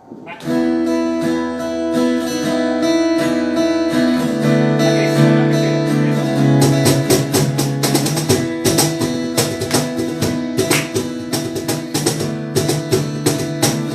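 Acoustic guitar playing the instrumental intro of a worship song: held chords at first, then steady rhythmic strumming from about six seconds in.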